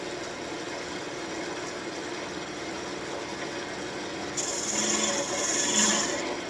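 Wood lathe running steadily with a birch spindle spinning. About four seconds in, a graver is pressed into the turning wood to cut a detail, adding a louder scraping hiss for about two seconds.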